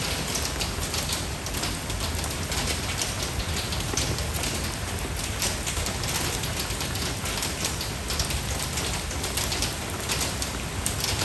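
Steady rain, with many close drops landing as sharp ticks over an even rushing noise.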